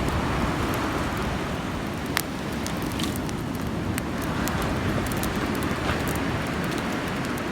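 Wood bonfire burning: a steady low rush with scattered sharp crackles and pops, the loudest about two seconds in.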